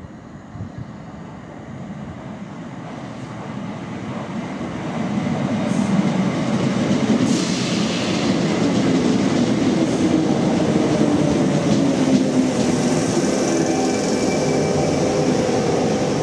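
Class 319 electric multiple unit coming into the station. It grows steadily louder over the first six seconds and then runs on loud and steady, with wheels clattering on the rails and a steady whine in the second half.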